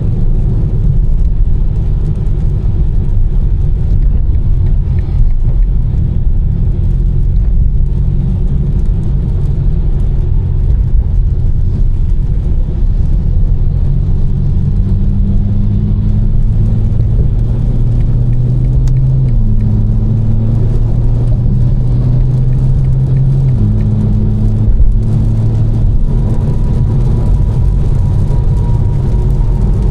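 Tuned BMW M4's twin-turbo straight-six, with catless downpipes and an Fi exhaust, running under way over steady road rumble. The engine note holds steady for the first half, then climbs and drops abruptly about two-thirds of the way in, climbs again and drops a few seconds later: two upshifts.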